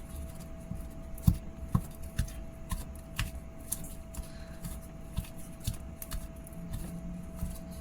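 Sticky homemade slime being stretched and folded by hand: irregular small clicks, pops and squelches.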